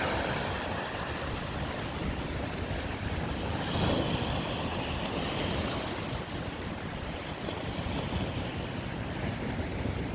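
Lake waves breaking and washing on the shore in strong wind, with gusts buffeting the microphone. A wave surges louder about four seconds in.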